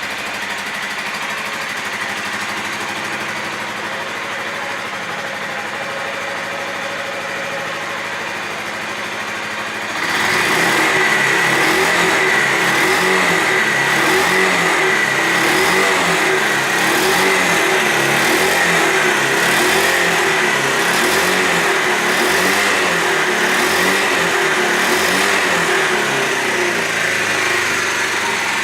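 2009 Suzuki GZ250 motorcycle's single-cylinder four-stroke engine running at a steady idle; about ten seconds in it speeds up and is held at a higher, louder speed with a steady high whine, easing back a little near the end.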